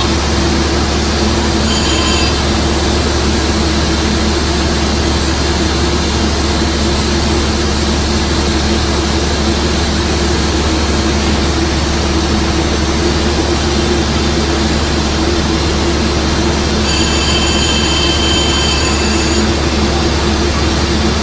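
Diesel-hauled Metro-North train at the station, running with a steady loud drone and hum. A brief high-pitched squeal comes about two seconds in, and a longer one of about two seconds comes near the end.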